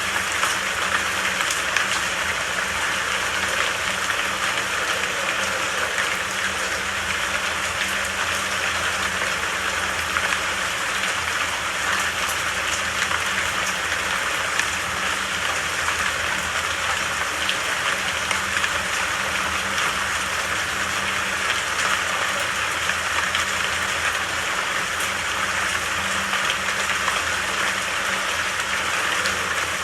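Steady rain falling, an even hiss with a fine patter of drops that holds constant throughout.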